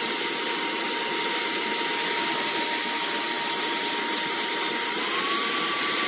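TANYO cordless handheld vacuum cleaner running: a steady motor whine over a rushing airflow hiss. About five seconds in, the whine steps up to a higher pitch as it goes from first to second speed.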